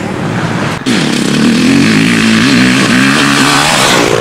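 Motocross bike engine running hard on the track, its pitch rising and falling with quick blips of the throttle. There is a brief break just under a second in, after which the engine is louder and closer.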